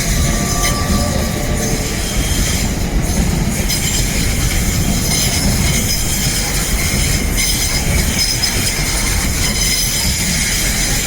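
A train running through the station with a steady heavy rumble and a faint high-pitched squeal of wheels on the rails.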